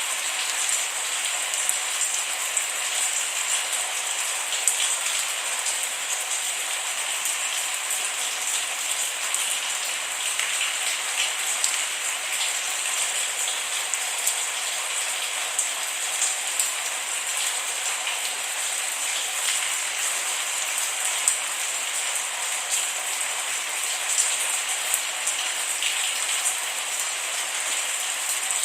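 Steady rain with no thunder, a constant hiss dotted with the small ticks of individual drops hitting a surface.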